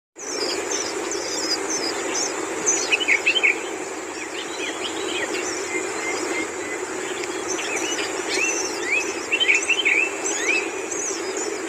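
Long-tailed shrikes calling: high chirps and short rising calls, in louder clusters about three seconds in and again around nine to ten seconds in, over a steady low hum.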